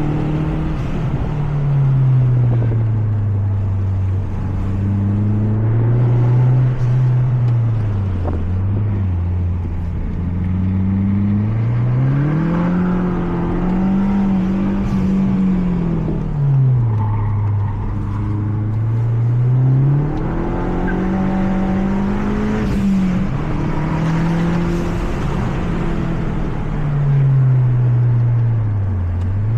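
Mazda 3 MPS (Mazdaspeed3) 2.3-litre turbocharged four-cylinder engine heard from on board while lapping a circuit. The revs climb under acceleration, then fall sharply on shifts and braking, repeating several times.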